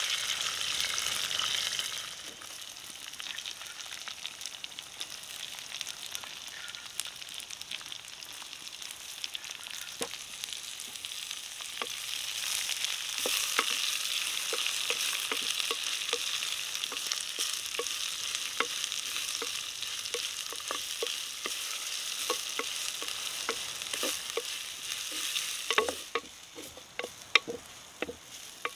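Garlic, curry leaves, then sliced shallots and green chillies sizzling in hot oil in a clay pot, stirred with a wooden spatula. The sizzle grows louder about twelve seconds in. Near the end it drops away, leaving sharp taps of the spatula against the pot.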